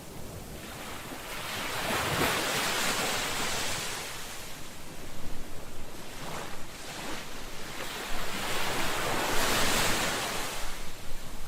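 Ocean waves breaking on a shore: a hissing surf that swells and recedes, with two larger waves washing in, one about two seconds in and another near the end.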